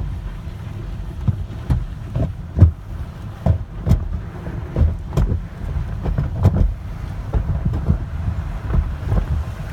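Car wash tunnel machinery running: a steady low rumble with irregular sharp thuds and slaps scattered through it.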